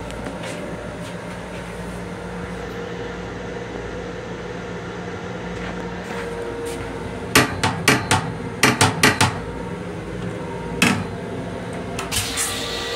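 Steady running hum of an M7 electric railcar, heard from inside its restroom. Around the middle comes a quick run of about eight sharp knocks, then a single knock a second and a half later and a few light ones near the end.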